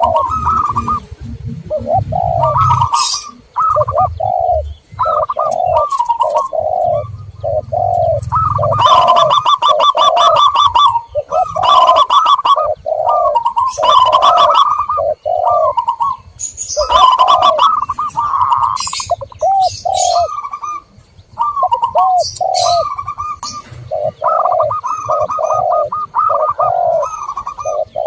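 Zebra doves and spotted doves cooing over and over, as played for a dove lure call, with short high chirps of small birds now and then. A low hum runs under the first eight seconds or so.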